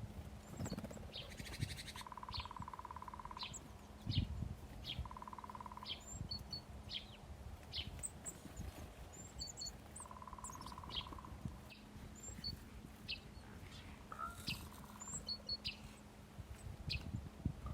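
Small songbirds at a feeder chirping: many short, high, falling chirps, one or two a second, mixed with a few buzzy trilled calls lower in pitch. There is a soft thump about four seconds in.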